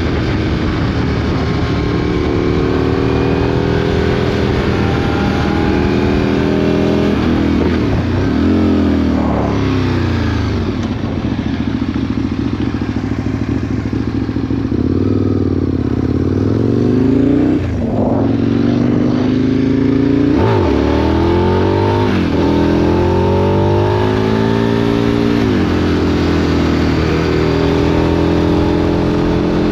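2003 Aprilia Tuono RSV 1000's 60-degree V-twin through a Remus exhaust, under way. The revs climb and fall again and again, with several sudden dips where gears are changed.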